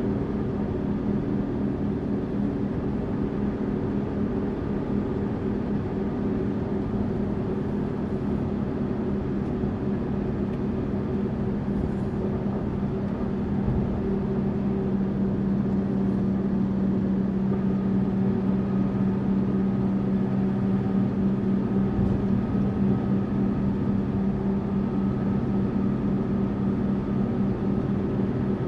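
Tourist bus running steadily: a continuous engine drone with road noise. A faint higher whine joins past the middle, and the drone grows slightly louder.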